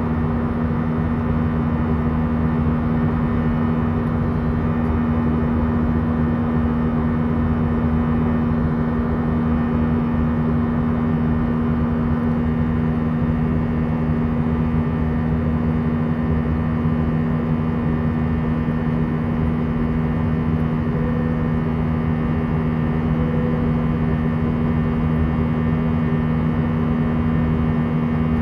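Steady cabin drone of an Airbus A319 in flight, engine and airflow noise, with a constant low hum and no change in level.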